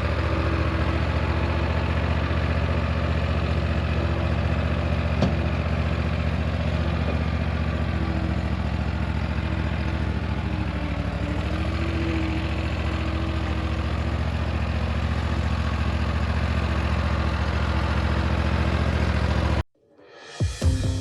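Lawnmower engine running at a steady speed. It is cut off suddenly near the end, and a guitar song starts.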